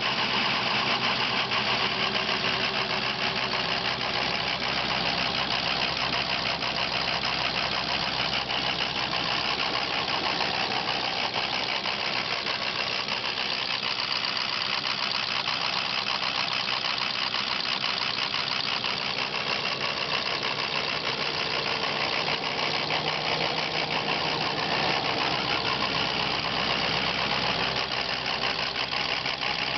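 Ford Power Stroke diesel V8 idling with a steady, fast diesel clatter. The rough idle is the sign of a failing injection control pressure (ICP) sensor.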